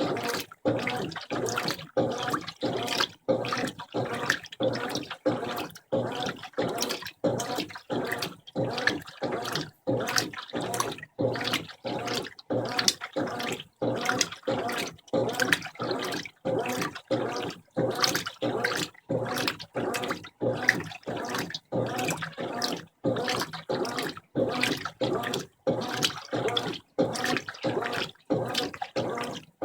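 Brastemp 15 kg top-loading washing machine agitating its load in the rinse water: a rhythmic churning and sloshing in short strokes, each broken by a brief pause, roughly one to two a second.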